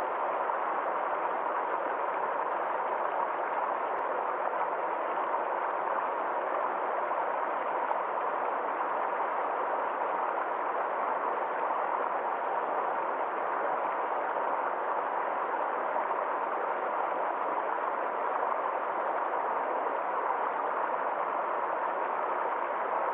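Forest stream flowing: a steady, even rush of water with no change in level.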